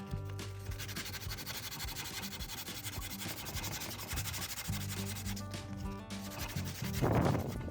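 Sanding: a steady abrasive scraping for about five seconds, with a louder, rougher scrape near the end, over background music.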